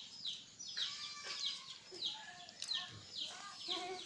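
A bird chirping over and over in short falling notes, two or three a second, with a few lower clucking calls among them.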